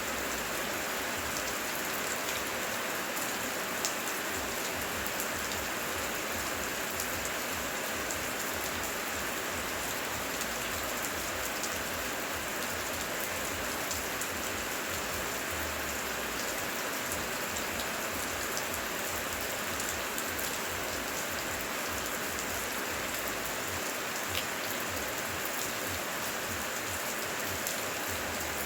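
Steady heavy rain falling, an even hiss with many small drops ticking on surfaces.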